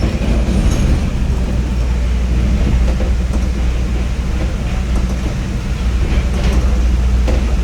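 Chicago CTA Red Line subway train running through the tunnel, heard from inside the car: a loud, steady low rumble with occasional faint clicks from the wheels on the track.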